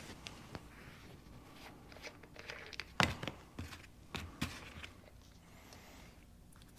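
Small metal clicks and knocks of hand tools and injection-pump parts being handled on a workbench, a few scattered taps with the loudest about three seconds in.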